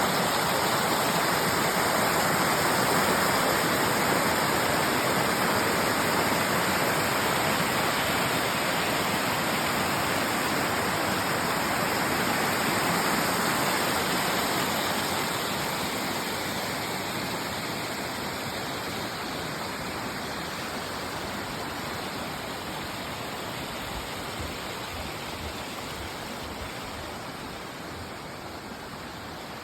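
Small waterfall of several streams pouring into a lake, a steady rushing of falling water that fades gradually over the second half.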